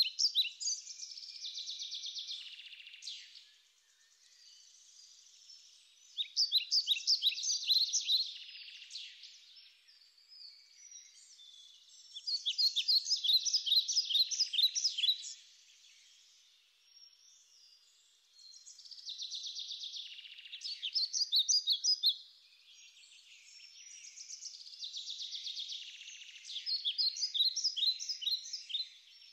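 Small birds chirping in rapid, high-pitched runs, in bouts of a few seconds with short pauses between.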